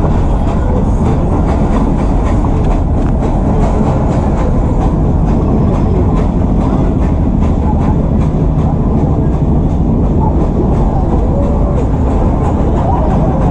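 Nilgiri Mountain Railway toy train running along the track, heard from inside the coach: a steady rumble with many small, rapid rail clicks.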